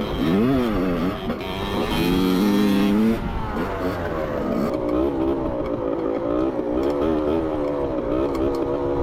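Dirt bike engine revving up and down with the throttle, held high briefly, then easing off about three seconds in and running steadier with small changes in speed.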